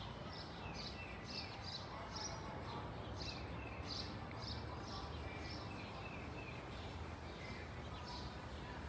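Small birds chirping in quick repeated short notes, over a steady low rumble.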